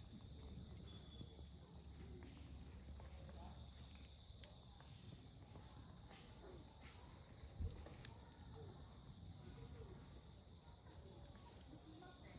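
Faint night insects chirping in steady, repeating trains of high pulses, with the odd faint crackle from a wood campfire. There is one dull thump about seven and a half seconds in.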